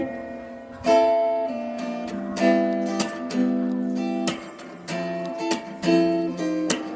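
Background music: acoustic guitar strumming chords, about one strum every half second.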